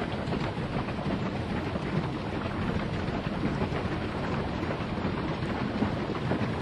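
Steady rushing noise of wind and water out on open water, with a fine crackle throughout and no engine tone standing out.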